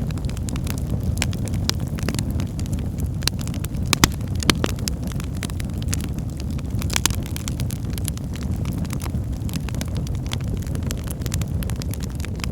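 Wood logs burning in a fireplace: a steady low rumble of flame with frequent small crackles. A few sharper, louder pops come about four seconds in, again half a second later, and near seven seconds.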